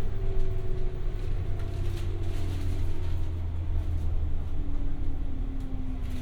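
Running noise inside a JR West 201-series electric train's motor car (MoHa 201) braking for a station: a steady low rumble of wheels on rail, with a whine from the traction motors and gears falling steadily in pitch as the train slows.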